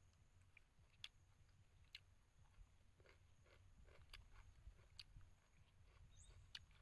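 Faint chewing of a mouthful of stir-fried shrimp and vegetables, with a few soft, sharp clicks spaced about a second apart.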